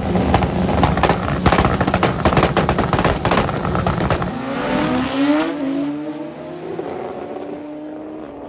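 Turbocharged Pro Extreme drag motorcycle at full throttle down the drag strip, its engine a dense, rapid crackle. About four and a half seconds in, its note drops in pitch and fades as the bike runs away down the track.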